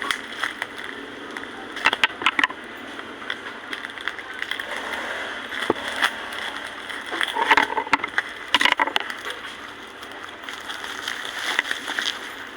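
Plastic packaging crinkling and rustling as a parcel is opened by hand, with short bursts of sharp crackles a few times.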